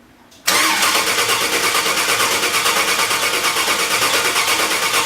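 An engine being cranked over by its starter, starting suddenly about half a second in and turning over with a fast, even pulse without catching. The engine is not firing, which the owner puts down to a lack of spark.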